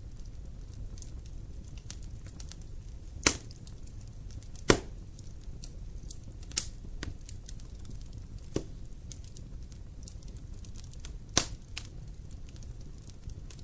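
Wood fire burning in a fireplace: a low steady rumble with scattered small crackles and five sharp pops, the two loudest about three and five seconds in.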